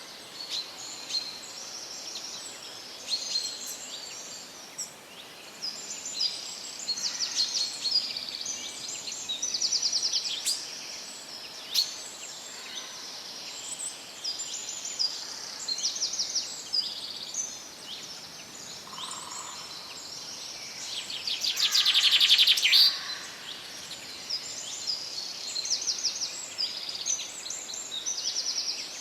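Several songbirds chirping and singing over a steady faint hiss of forest background. About three quarters of the way through comes one louder rapid trill lasting a second or two.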